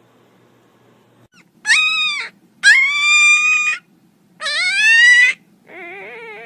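A puppy crying in high-pitched howls, four cries of about half a second to a second each, the last one quieter and lower.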